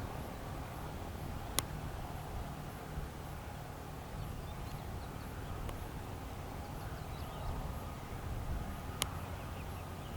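Faint bird chirps over a low steady rumble, with two sharp clicks, one early and one near the end.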